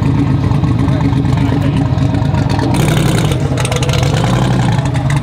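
Turbocharged LS V8 truck engine idling with a steady rumble, with a short rush of hissing noise about three seconds in.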